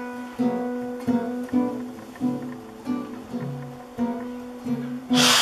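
Acoustic guitar being picked, a note or chord about every half second, carrying on after the sung verse. About five seconds in, a sudden loud hiss of noise comes in over the guitar.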